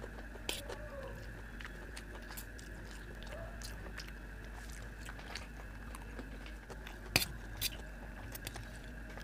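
Close-miked chewing of a mouthful of noodles, with scattered sharp clicks from the mouth and from a fork against the steel plate; the loudest click comes about seven seconds in. A faint steady high hum runs underneath.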